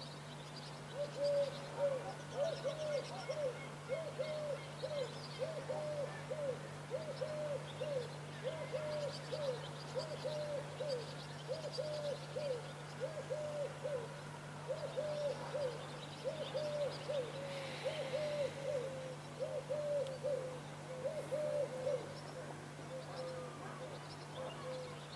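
A bird calling the same short rising-and-falling note over and over, about twice a second, for some twenty seconds before it thins out near the end. Faint chirps of small birds sit higher up, over a steady low hum.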